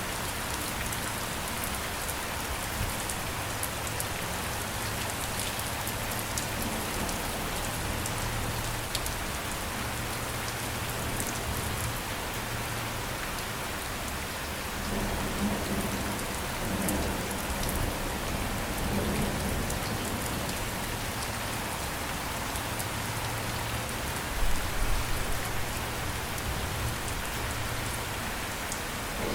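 Steady rain pouring onto a surface, with scattered sharp drop ticks. Low rumbles of distant thunder swell up about halfway through and again near the end.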